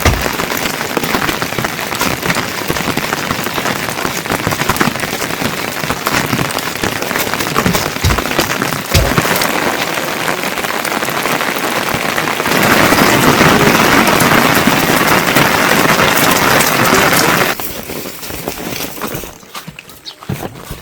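Heavy rain falling, with single drops striking hard close by. About twelve seconds in it turns denser and louder for some five seconds, then eases off suddenly.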